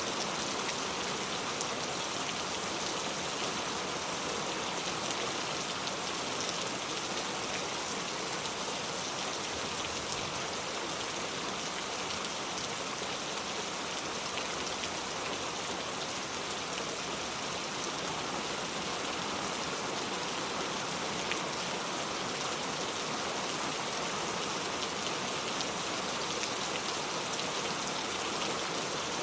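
Steady rain falling, an even dense hiss of drops with fine patter, unchanging throughout.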